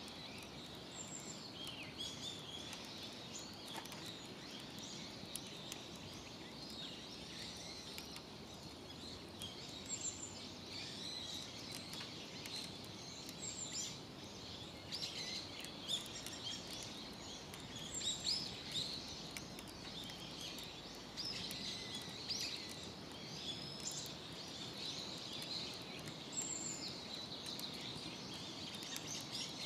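Several wild birds chirping and calling over steady outdoor background noise, with a short high note recurring every few seconds and faint scattered crackles.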